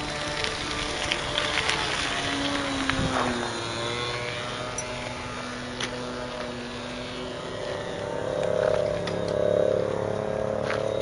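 Small model-aircraft engine running, its pitch gliding up and down as it flies, growing louder about eight seconds in.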